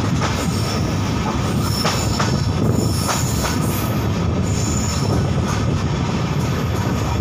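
Passenger train running on the rails, heard from an open coach door: a steady rumble of wheels on track with a few rail clicks, and thin high wheel squeals coming and going around the middle.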